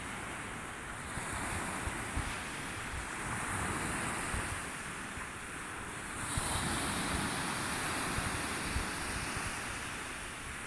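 Sea waves washing in, in two slow swells of surf, the second building about six seconds in, with wind rumbling on the microphone.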